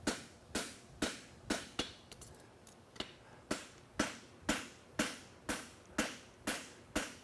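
Farrier's hammer striking a hot steel horseshoe on the anvil in a steady rhythm of about two blows a second, with a short pause about two seconds in. These are the forging blows that square up and crispen the heel caulk corner of a double-caulked hind shoe.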